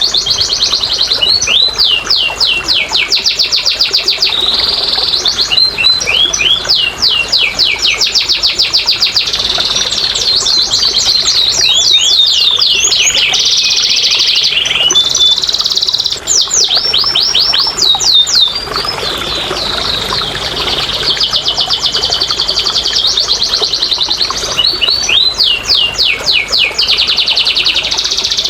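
Domestic canary singing a long, unbroken song of fast trills, with rolling runs of repeated notes and quick rising and falling sweeps.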